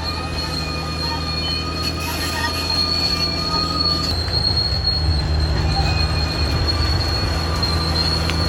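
Caterpillar D6R XL bulldozer working: the diesel engine rumbles under load while the steel track undercarriage squeals in steady high tones. The engine grows louder about four seconds in.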